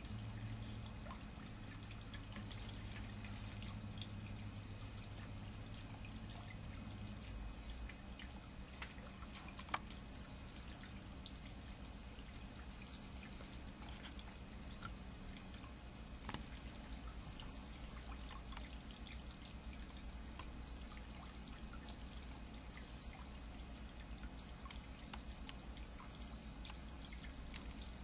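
A small bird's high, thin calls, short clusters repeating about every two seconds, over a steady background hiss. A low hum stops about seven seconds in.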